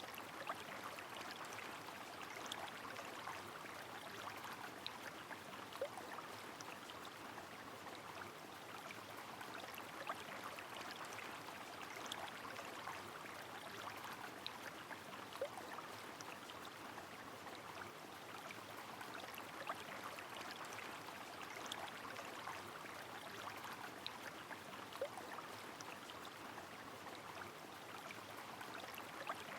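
Steady rushing of a river in the rain, with scattered single drop ticks.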